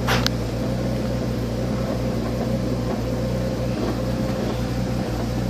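Nissan GT-R's 3.8-litre twin-turbo V6 idling steadily, running without its mass airflow sensors, with a short click near the start.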